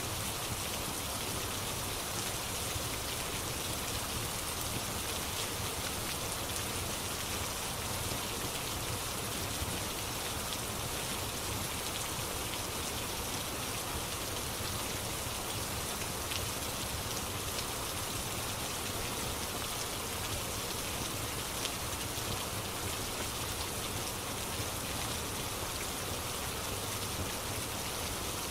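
Steady rain falling, an even hiss, with a fireplace crackling faintly a few times.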